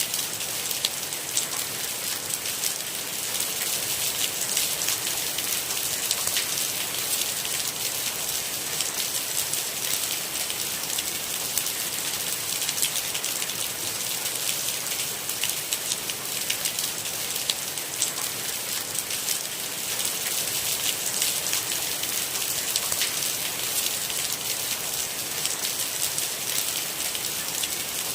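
Steady rain falling, a continuous hiss thick with countless small, sharp drop hits, with no thunder.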